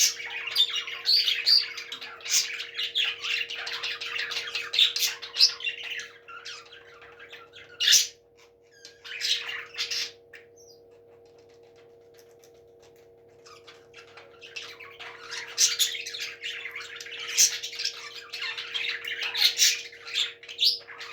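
Parrots chattering and squawking in quick high chirps, with a few louder squawks, going quiet for about three seconds around the middle before starting up again.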